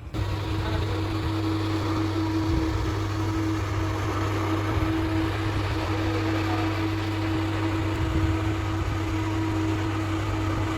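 Industrial machinery running steadily: a constant motor hum with a steady higher tone over a mechanical rush, starting and stopping abruptly.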